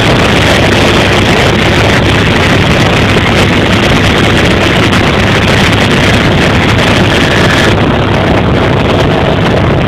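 Helicopter in flight: loud, steady engine and rotor noise, with the high hiss thinning out abruptly about eight seconds in.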